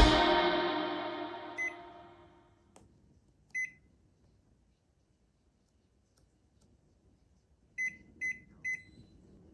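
Background music fading out, then short electronic beeps from a steam oven's control panel: single beeps about one and a half and three and a half seconds in, then three in quick succession near the end.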